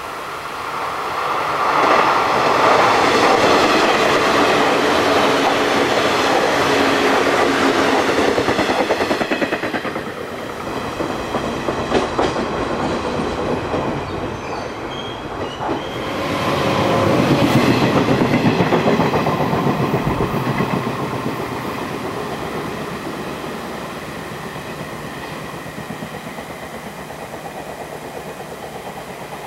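Older JNR-type limited express electric trains passing at speed, wheels clattering over the rail joints. One pass builds over the first couple of seconds and holds for several more. A second swells up about sixteen seconds in and slowly fades away.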